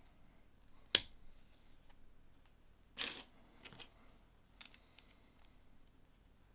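Plastic LEGO pieces being handled and snapped together. A sharp click about a second in is the loudest sound, then a short rattle about three seconds in, followed by a few lighter clicks.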